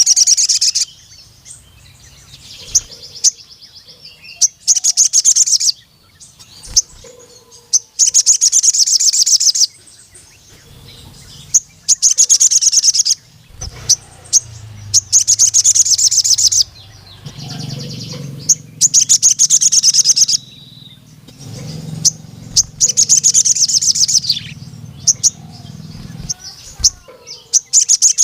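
Male sogon (crimson sunbird) singing in repeated long bursts of very rapid, high, metallic trills. Each burst lasts one to two and a half seconds, with short pauses between them.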